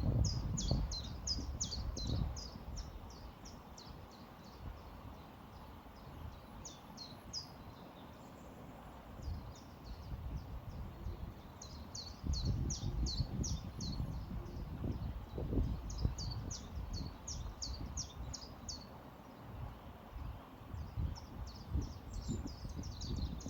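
Songbird singing rapid runs of high, sharp chirps, each run lasting a second or two and repeated several times, over a low rushing that swells and fades.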